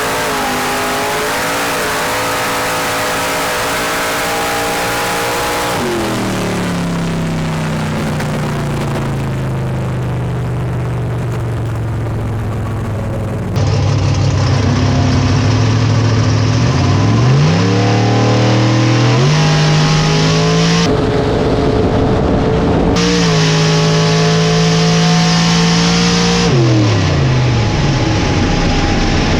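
Drag car engine at full throttle, its pitch climbing slowly; about six seconds in the throttle is lifted and the engine winds down as the car coasts. From about halfway on, a louder, lower engine note is revved up and down in short rises, then falls away again near the end.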